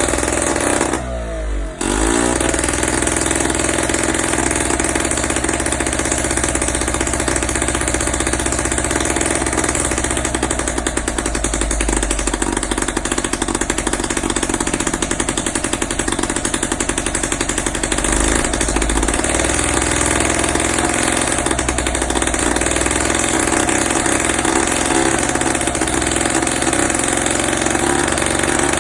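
Velosolex Micron's small two-stroke engine running at a steady, rapid beat. About a second in it briefly drops away and picks up again.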